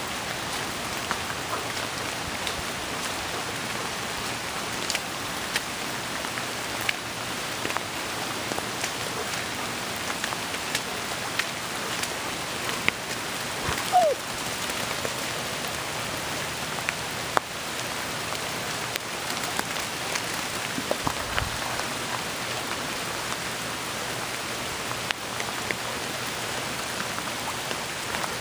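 Steady rain falling on a grassy yard, a constant hiss with many scattered drop ticks close by. About halfway through there is one brief, falling squeak.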